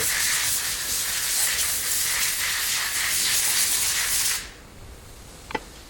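A loud steady hiss that cuts off suddenly a little over four seconds in, followed by a single faint tick.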